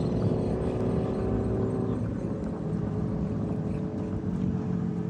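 A group of motorcycles riding away, their engines droning steadily and slowly fading.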